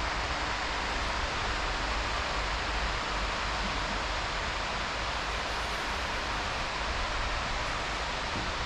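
Steady, even rushing noise of distant motorway traffic, with wind rumbling on the microphone.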